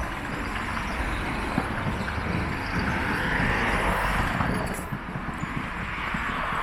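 Street traffic: road vehicles passing with tyre and engine noise, one swelling past between about three and five seconds in.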